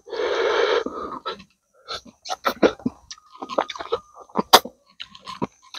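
A man chewing and sucking meat off a cooked rabbit's head and bones, with wet smacking clicks and crunches. It opens with a short breathy rush of noise.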